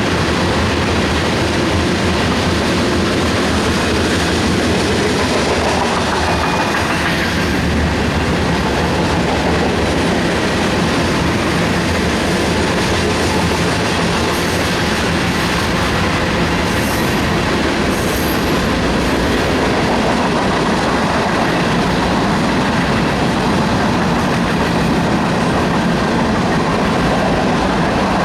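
Union Pacific freight train rolling past, a steady loud rumble and rattle of wheels on rail with the clickety-clack of the cars. A few brief faint high squeaks come around the middle.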